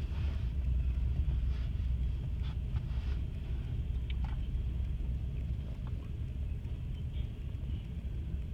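Long, slow-moving train rolling past with a steady low rumble, a few faint high squeaks and ticks over it.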